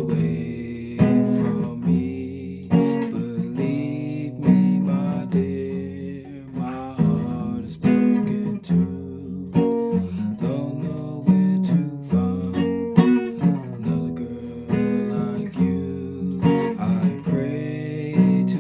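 Guitar played: strummed and picked chords, with a new attack about every second.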